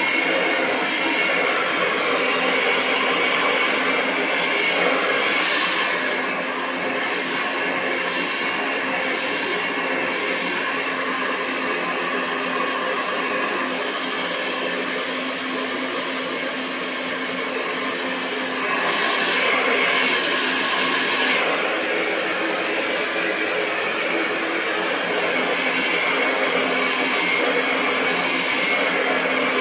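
Hair dryer running continuously, a steady rush of air over a motor whine, with slight swells in brightness about five seconds in and again around twenty seconds.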